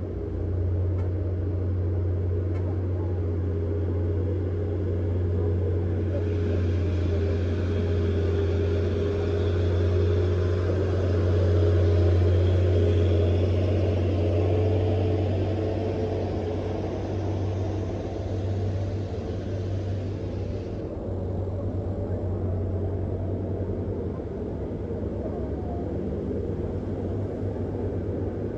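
Heavy diesel truck engine running steadily with a deep drone. A hiss joins about six seconds in and cuts off abruptly some fifteen seconds later.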